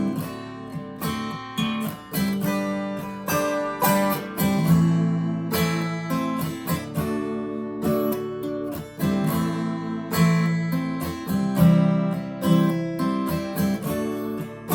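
Acoustic guitar strumming chords in a steady rhythm, an instrumental break in a folk song.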